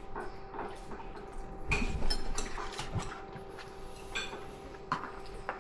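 Cutlery and dishes clinking and knocking at a meal, in scattered short clicks with a busier cluster about two seconds in, over a faint steady hum.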